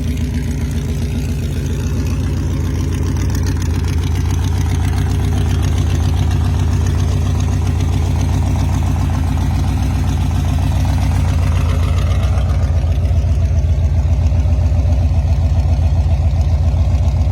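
Chevy 350 small-block V8 in a Ford T-Bucket hot rod running steadily, with a deep, rapid exhaust pulse. It gets a little louder about five seconds in and again after twelve seconds.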